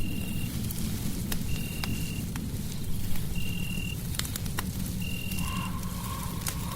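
Fireplace crackling with sharp pops over a steady low rumble, while a short, high, even call repeats about every second and a half. A lower held tone joins near the end.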